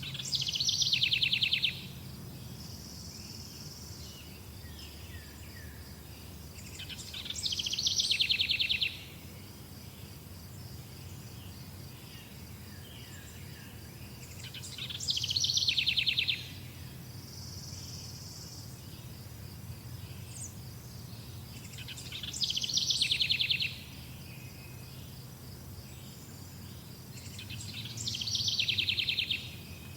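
A songbird repeating the same song five times, about every seven seconds: each song is a rapid trill of about two seconds that drops in pitch. Under it runs a steady high insect buzz, like crickets.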